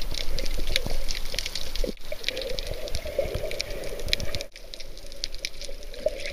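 Water splashing and bubbling close to the microphone, with a dense crackle of small clicks; it breaks off abruptly about 2 seconds in and again about 4.5 seconds in.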